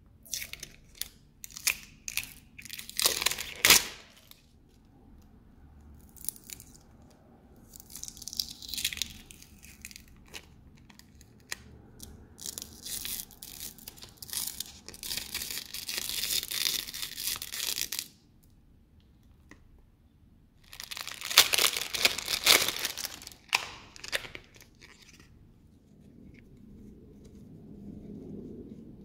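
Packaging being torn open and crinkled by hand, in repeated bursts of tearing and rustling. The longest stretch of ripping and rustling falls around the middle, with another burst a little past two-thirds of the way through.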